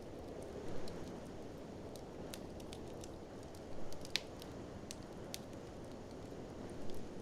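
Wood fire crackling, with scattered sharp pops, over a steady low rush of blizzard wind that swells a little about a second in, near the middle and near the end.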